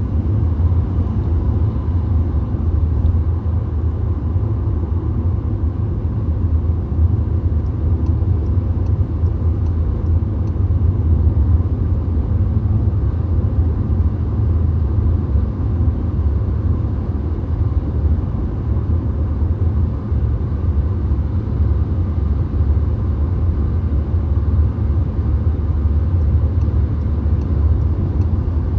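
Steady low road rumble inside a VW Golf cruising on the motorway: tyre and wind noise with the engine's drone, even throughout.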